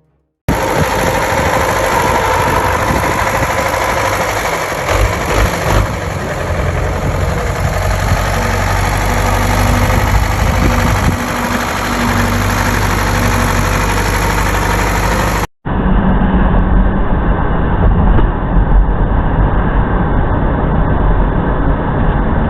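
A heavy vehicle's engine running with road and mechanical noise. It breaks off abruptly about fifteen seconds in and resumes duller and more muffled.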